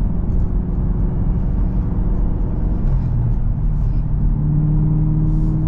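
Chevrolet Camaro ZL1's supercharged 650-horsepower V8 running steadily under way, heard from inside the car. Its drone steps up in pitch about three seconds in.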